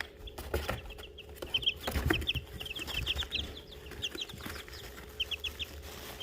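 Young chicks peeping in quick runs of short, high notes, with a few knocks and scuffles from the birds moving about in the litter.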